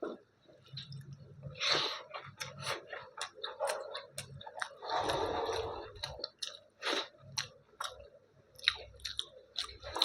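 Chewing and wet mouth smacking of a mouthful of dal and rice, in irregular smacks with a longer squishing stretch around the middle.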